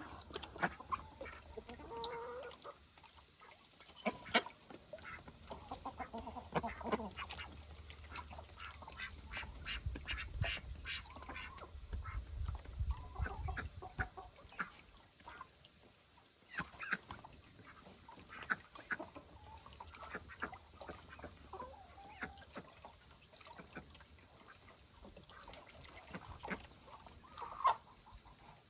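Backyard ducks and chickens calling on and off, mixed with many short, sharp clicks and scratches.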